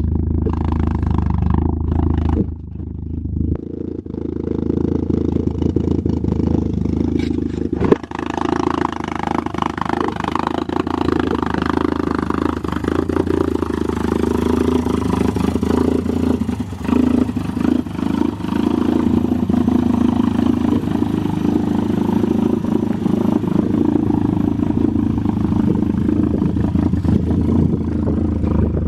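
Built 2.1-litre 16-valve four-cylinder engine in a 1988 VW Cabriolet running steadily, with one sharp click about eight seconds in.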